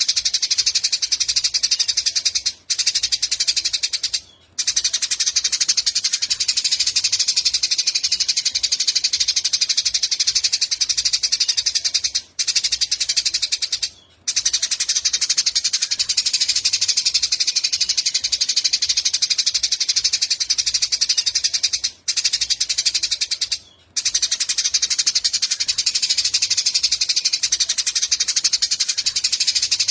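Eurasian tree sparrows chirping in a dense, rapid chorus. Two short breaks recur about every ten seconds, so the same stretch repeats as a looped recording.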